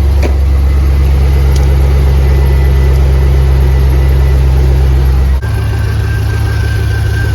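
Truck engine idling steadily, with a rebuilt 4L60E automatic transmission just fitted. The idle sounds normal. The hum and a faint high whine change abruptly a little over five seconds in.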